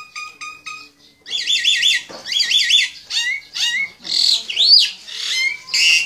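A bird's rapid chirps and whistled calls: quick chirped notes, a brief pause about a second in, then repeated chirping phrases and two louder sweeping whistles near the end.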